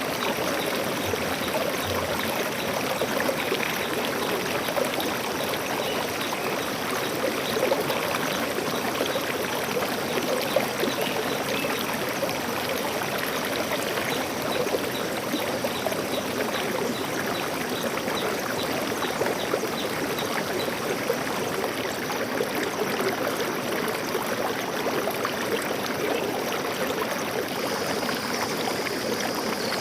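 Stream water flowing steadily, a continuous babbling rush without pause. A faint high steady tone comes in near the end.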